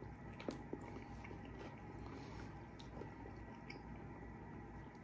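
Chewing and biting baked chicken off the bone, with faint wet mouth clicks; two sharper clicks stand out about half a second in, over a steady low hum.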